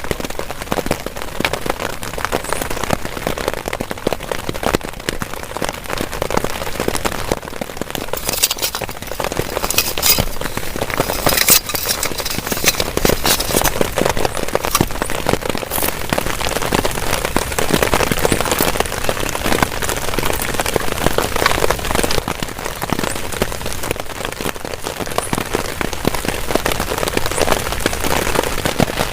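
Heavy rain falling on a tarp shelter: a dense, steady patter of countless drops, with a run of sharper, brighter drop hits through the middle.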